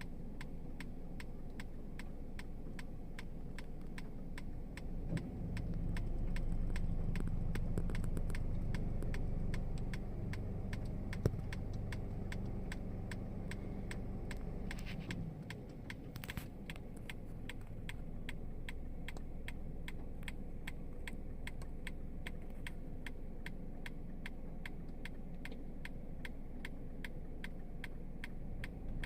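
A steady low mechanical hum, like an engine running, with a fast, even ticking over it.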